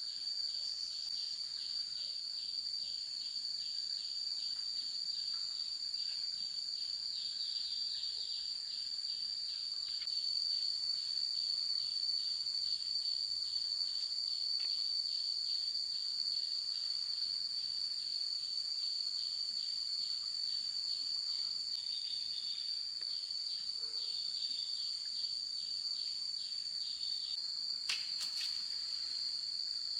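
Insects calling: a steady high-pitched trill, with a regular pulsing chirp underneath for much of the time. A short knock is heard near the end.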